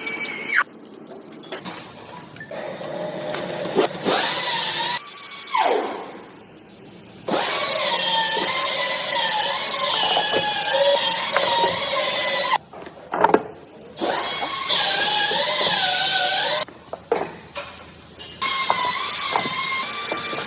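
Power tool motor whining in several long runs, its pitch wavering up and down, with abrupt stops between runs and one spin-down about five seconds in.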